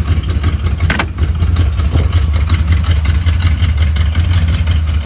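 1940 Oldsmobile engine running steadily at a low, even drone, with one sharp click about a second in.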